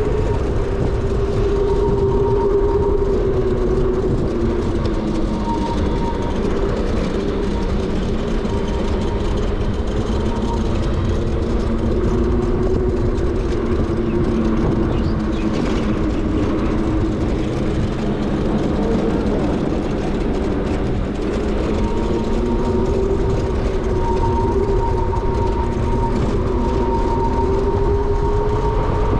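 Riding noise from an ONYX RCR electric motorbike on the move: steady wind and road rumble, with the motor's whine slowly rising and falling in pitch as the speed changes.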